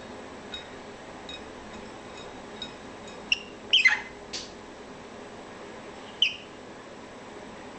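Cockatiel chirping: a few short chirps, the loudest a call that slides down in pitch about four seconds in. There are faint ticks early on and a sharp click just after the loud call.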